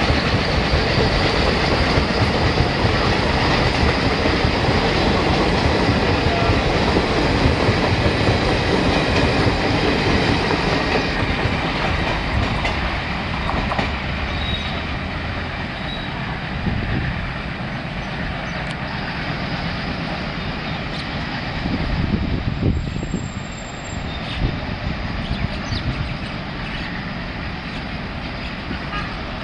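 Passenger coaches of an express train running past at speed: a loud, steady rumble and clatter of wheels on the rails that eases off about ten seconds in as the last coach draws away, leaving a lower rail rumble.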